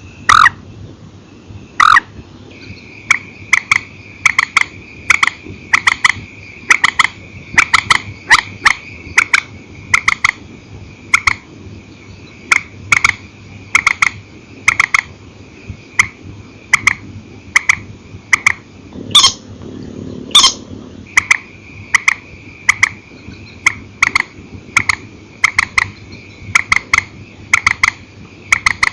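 Grey-headed swamphen calls from a lure recording: sharp, clipped notes repeated several times a second, singly and in quick pairs, with two fuller, louder calls about two-thirds of the way through. A steady high thin tone runs behind them.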